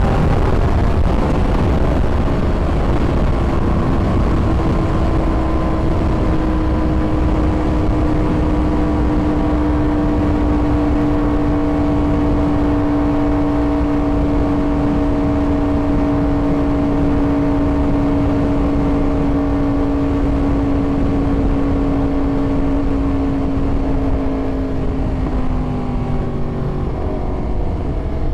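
Yamaha YZF-R1 sport bike's inline-four engine running at a steady cruising note, its pitch easing down slowly, over a low rushing noise. Near the end the note drops and changes as the engine slows.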